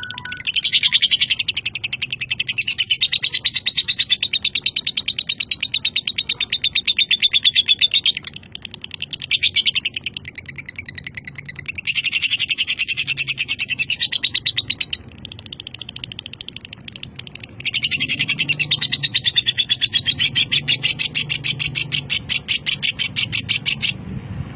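Lovebird chattering its long 'ngekek': a fast, rattling trill of high chirps, in four long runs of several seconds each with short breaks between them.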